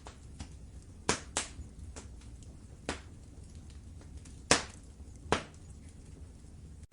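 Wood fire crackling in a fireplace: a low steady rumble of flames with irregular sharp pops and small ticks, five louder pops among them.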